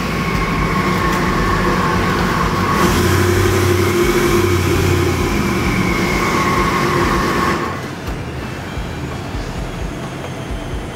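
A twin-turbocharged 427 cubic inch small-block Chevy V8 on an engine dyno, idling with a steady whine right after a full-power pull. The sound drops sharply about seven and a half seconds in, leaving a quieter steady background.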